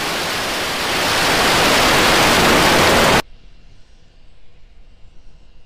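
Starship SN10's Raptor rocket engines firing during ascent: a loud, steady rush of noise that grows louder about a second in. A little past three seconds it cuts off abruptly, leaving a much quieter faint hiss with a thin high tone.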